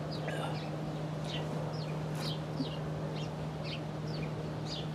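A small bird chirping repeatedly, short quick falling notes about twice a second, over a steady low hum.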